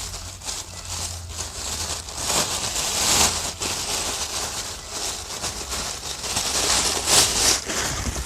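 Plastic packets of chemical powder being handled, crinkling and rustling in uneven bursts, loudest about three seconds in and again near the end.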